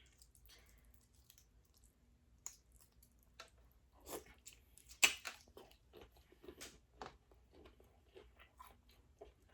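Close-miked chewing of boiled seafood: soft wet mouth clicks and smacks, with a sharper smack about five seconds in.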